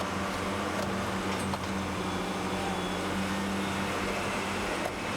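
Heavy construction machinery's diesel engine running steadily: a constant low drone with a few faint clicks and knocks over it.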